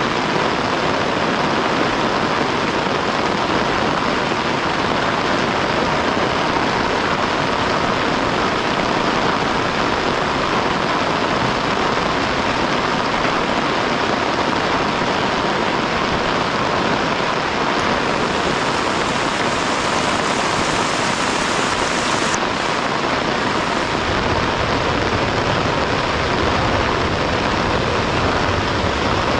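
Heavy rain falling steadily, a dense even hiss. A low rumble joins underneath about two-thirds of the way in.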